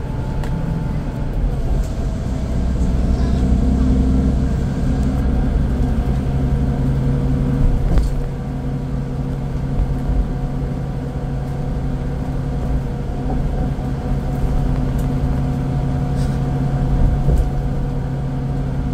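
Scania K410IB coach's 13-litre six-cylinder diesel engine running while the bus is under way, its note shifting in the first few seconds and then holding steady, with a single sharp knock about eight seconds in.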